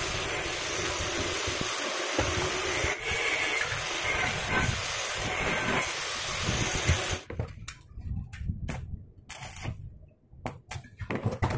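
Homemade grass chopper running on test, a steady loud rushing hiss of the spinning blade rotor, which cuts off abruptly about seven seconds in; short, irregular sounds follow.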